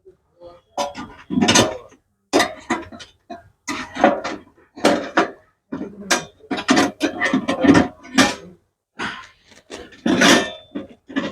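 Irregular metallic clattering and knocking, with some short ringing: sheet-metal covers of the hybrid battery pack being handled and fitted into place.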